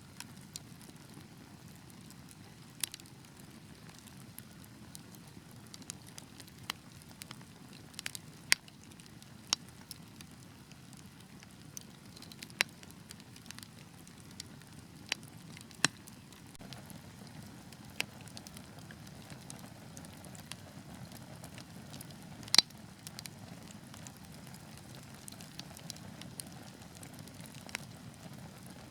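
Wood fire burning: a low steady rumble of flames under irregular sharp crackles and pops from the logs. The loudest pop comes about three-quarters of the way through.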